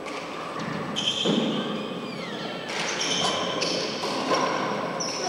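A four-wall handball rally: the ball smacking hard off the walls and floor several times, echoing in the enclosed court, with high squeaks from shoes on the court floor between the hits.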